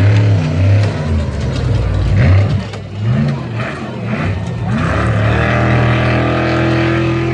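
Off-road race truck engine revving hard. Its pitch rises and falls over the first few seconds, then holds at a steady high pitch from about five seconds in.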